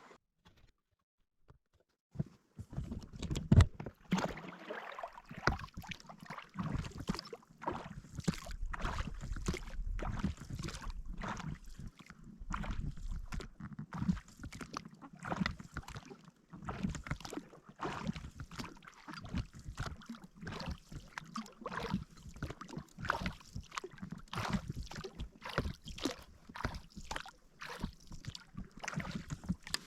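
Irregular knocks and rattles with water sounds around a small fishing boat, starting after about two seconds of near silence.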